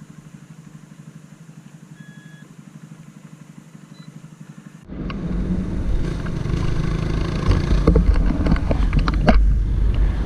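Single-cylinder Honda CG 160 Titan motorcycle engine idling with a quiet, rapid, even putter, and a short electronic beep about two seconds in. About five seconds in the sound jumps abruptly to the bike riding: loud wind rush on the microphone over the engine, with scattered sharp clicks.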